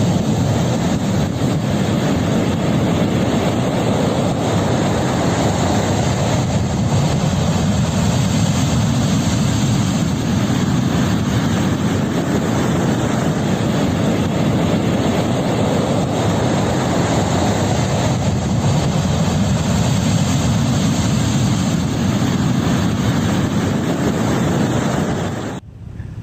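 Loud, steady roar of storm wind and heavy sea, swelling and easing a little, which stops abruptly near the end.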